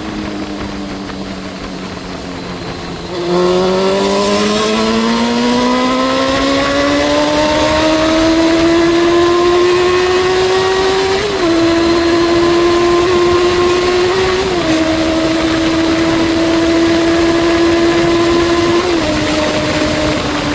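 Yamaha Fazer 600 inline-four running through a newly fitted aftermarket silencer. The engine note sags briefly, then about three seconds in the throttle opens and the revs climb steadily for several seconds before holding high, with three small dips in pitch.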